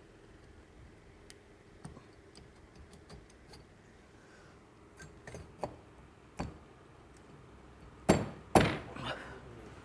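Light metallic clicks and clinks of engine parts being handled as a new cylinder is fitted onto a motorcycle engine, with a few sharper taps and then two loud knocks about half a second apart near the end.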